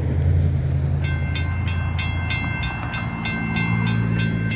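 A railroad grade-crossing warning bell starts about a second in, ringing in rapid, even strikes about three a second: the crossing signals activating for an approaching train. A low engine rumble runs underneath.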